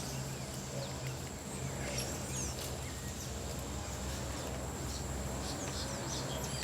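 Squirrel monkeys giving short, high-pitched chirps that slide down in pitch, scattered through the troop.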